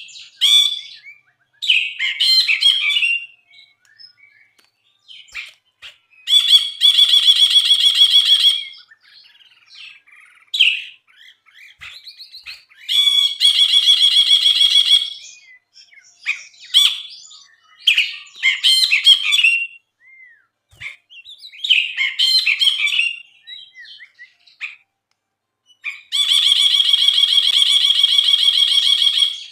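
Brinji (a bulbul) singing busily: short chattering phrases, broken three times by a long buzzy trill of about two seconds.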